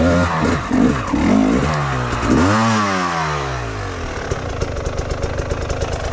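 Enduro motorcycle engine revving up and down several times, then settling to a steady idle about four seconds in.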